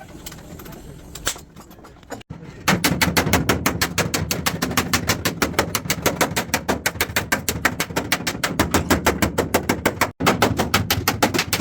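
Rapid, even knocking or hammering, about eight strikes a second, starting about three seconds in after a quieter stretch and briefly cut off once near the end.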